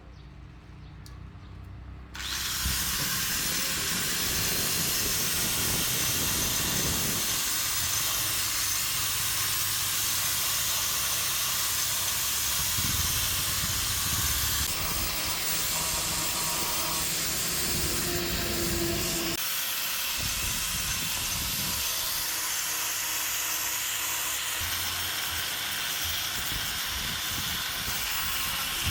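A pressurised jet hissing loudly and steadily, starting suddenly about two seconds in, after a few faint clinks.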